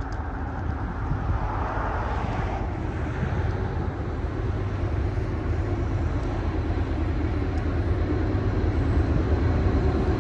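A train rumbling by, its low steady rumble slowly growing louder toward the end.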